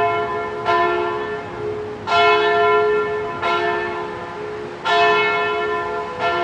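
A large church bell tolling, struck about every second and a half, each stroke ringing on and fading into the next.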